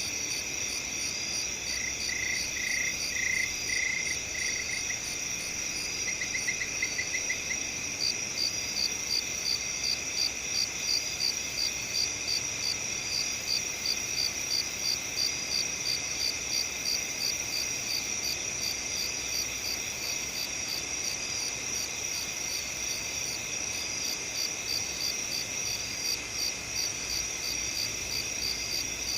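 Crickets chirping: a steady high chorus, with one cricket chirping about twice a second from about a third of the way in, and a lower trilling chirp for a few seconds near the start.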